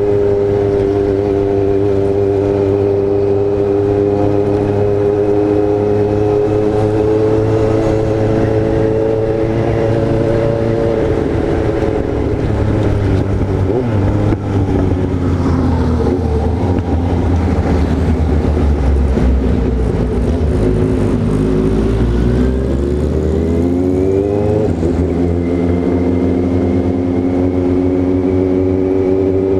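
Yamaha XJ6 inline-four motorcycle engine running under way at a steady cruise. Through the middle the revs drop and waver, then climb sharply about two-thirds of the way through before settling back to a steady pitch.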